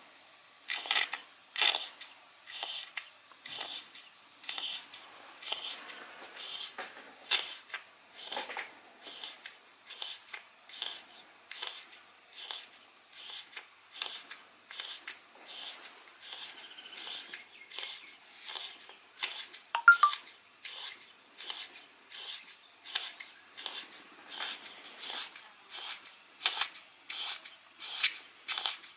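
Model steam engine chuffing slowly and evenly, about one and a half exhaust chuffs a second, held back by the working load of a Baker fan. A single sharp click about twenty seconds in.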